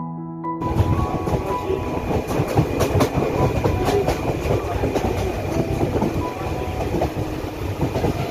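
Passenger train running along the track, heard from an open coach doorway: a steady rumble of wheels on rail with a clickety-clack of rail joints. A few notes of piano music cut off less than a second in.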